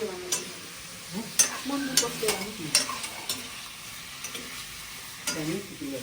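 Chicken pieces sizzling as they fry in hot oil in a pan, being browned. A spoon stirs them, clinking and scraping against the pan several times in the first half.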